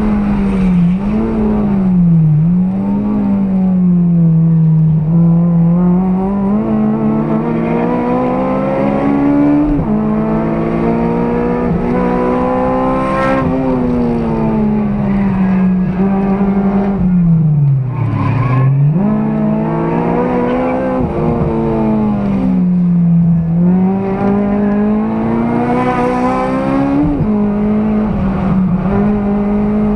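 Honda Civic Type R FD2's K20A four-cylinder engine, fitted with an aftermarket intake, header and 3-inch exhaust, heard from inside the cabin under hard track driving. Its pitch climbs several times under acceleration and drops when braking and downshifting, lowest about 18 seconds in.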